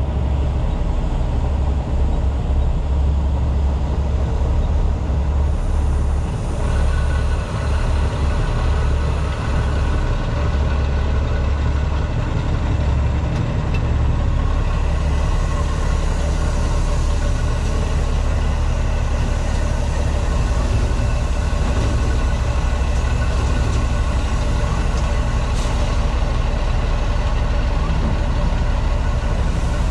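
Heavy diesel truck engine running steadily at idle, a loud, constant low hum.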